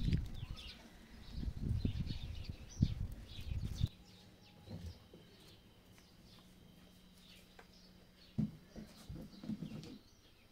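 Small birds chirping over low rumbling and scraping. About four seconds in, the sound drops abruptly to a quiet room with a faint steady hum, and a few soft knocks come near the end.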